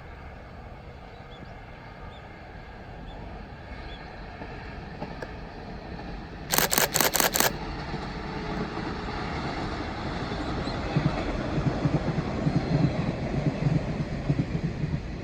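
A KiHa 110 series diesel railcar train approaching, its low engine and wheel rumble growing steadily louder with uneven low pulses in the second half. About halfway through, a camera shutter fires a rapid burst of about five clicks in one second.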